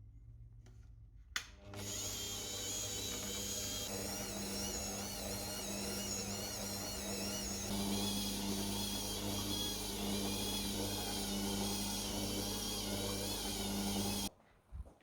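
Small electric kitchen-appliance motor switched on with a click about a second and a half in, running with a steady hum whose high whine wavers, then cut off abruptly shortly before the end.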